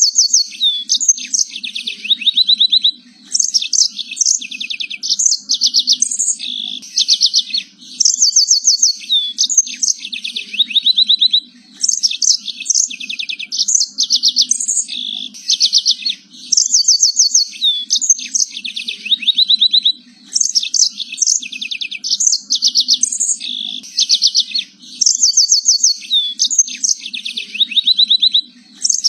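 Domestic canary singing a long, continuous song of rapid trills and whistled notes. The phrases run a few seconds each with brief pauses between them.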